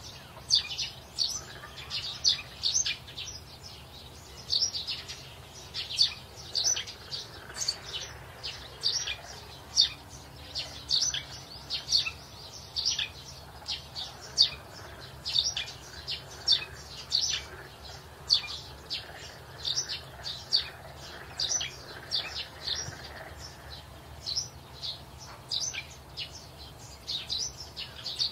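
Small birds chirping: short, high calls following one another a few times a second, over a faint steady low hum.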